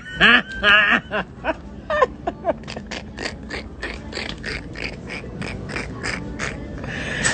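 A woman laughing hard: a few voiced laughs at first, then a long run of breathy, wheezing pulses, about three or four a second, that slowly fade.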